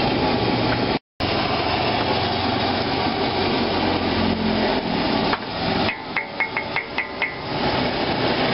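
Lumpia deep-frying in a wok of hot oil, a steady sizzle, with a brief dropout about a second in. About six seconds in, a steel spatula taps the wok about six times in quick succession, each tap ringing.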